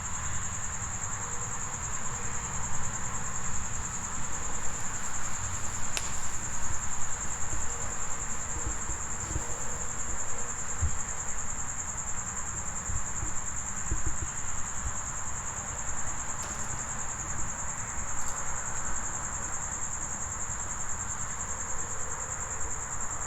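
Crickets trilling in one steady, unbroken high note, over a low rush of background noise.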